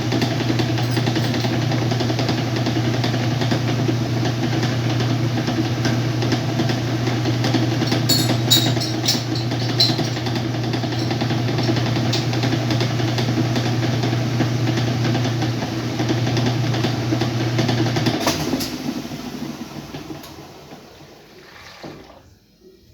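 Whirlpool washing machine running with a steady motor hum, a few light clicks partway through; near the end the motor cuts off and the machine winds down to quiet.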